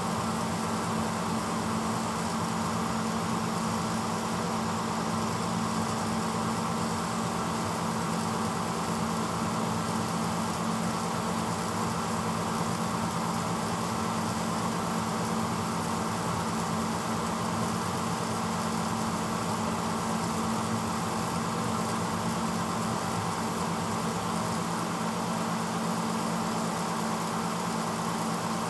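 1986 Hotpoint Potwasher dishwasher running mid-cycle: a steady motor hum with an even rushing noise over it, unchanging throughout.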